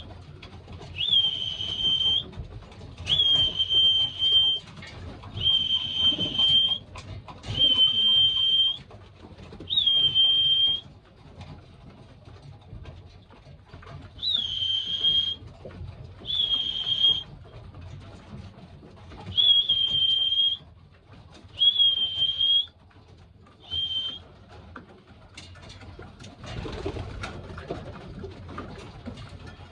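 A single-note whistle blown again and again, about ten steady notes of roughly a second each with a short break in the middle: the loft call that tells pigeons to drop in through the trap door for feed.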